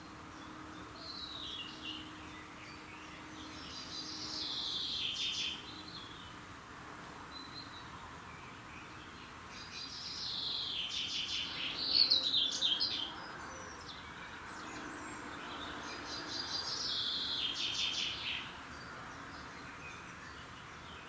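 Songbird singing outdoors at dawn, repeating high trilled phrases about every five seconds, with the loudest phrase about halfway through.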